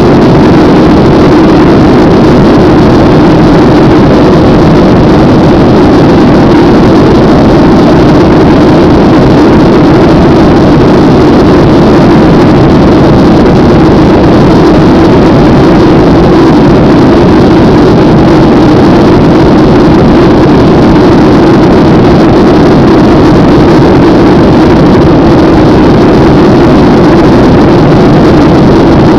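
Airliner cabin noise after takeoff: jet engines and airflow making a loud, unvarying rushing hum, with the strongest part low down and no change in pitch.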